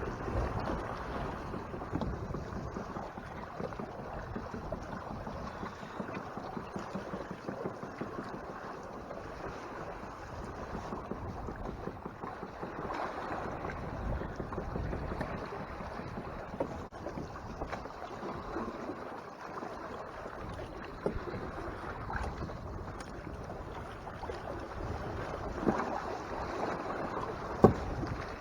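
Water rushing and splashing along the hull of a Hobie Mirage Tandem Island sailing kayak under way, with wind buffeting the microphone. A couple of sharp knocks come near the end.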